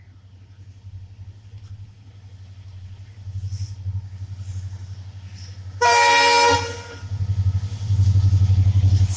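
A train approaching: a low rumble grows steadily louder, a loud horn sounds once about six seconds in for under a second, and the rumble then swells louder as the train comes close.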